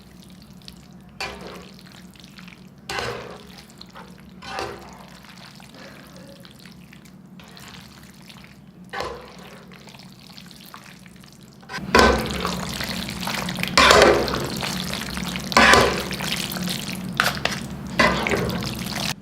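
Fettuccine being stirred and tossed through a creamy milk-and-cheese sauce in a pan, making wet, sloppy mixing sounds. It is soft and intermittent at first, then louder and continuous from about twelve seconds in.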